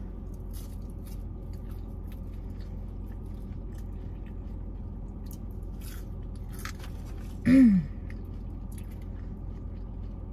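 Close-up chewing and biting of McDonald's food, with scattered small crunchy clicks over a steady low hum. About seven and a half seconds in comes one short hummed 'mm' that falls in pitch.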